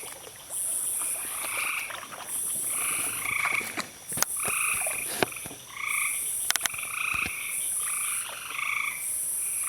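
A chorus of frogs calling: short notes repeated again and again, each at two pitches one above the other. Under them runs a high buzz that comes in regular pulses about every second and a half, with a few sharp clicks.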